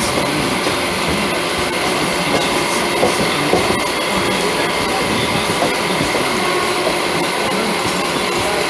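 Running noise of a moving electric suburban local train, heard from the coach's open doorway: a steady rumble of steel wheels on rail mixed with wind. A few louder knocks come about three seconds in.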